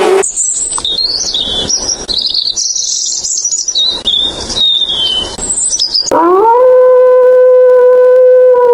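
European robin singing high, varied warbling phrases. About six seconds in, a grey wolf starts howling: one long call that rises in pitch, then holds steady.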